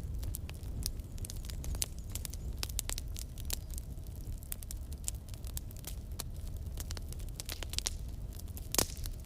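Wood fire burning in a fireplace: a low steady rumble with frequent sharp crackles and pops from the logs, one louder pop near the end.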